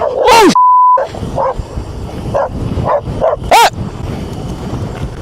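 A dog barking and yelping at a motorcyclist, about six sharp barks, the loudest about half a second in and again near the end, over a steady background rumble. A short single-pitch censor bleep comes just after the first loud bark.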